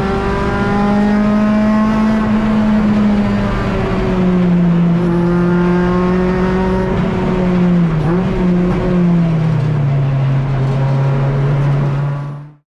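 Race car engine running under a steady, slowly easing pitch, with a brief wobble about eight seconds in, then dropping to a lower note. The sound cuts off abruptly near the end.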